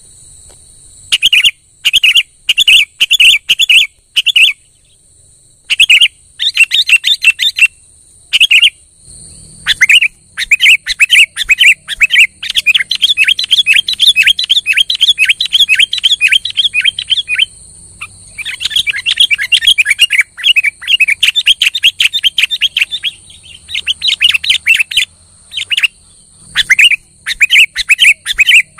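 Sooty-headed bulbul (kutilang) singing persistently: fast runs of short chattering notes in repeated bursts with brief pauses between them. A faint steady high tone runs underneath.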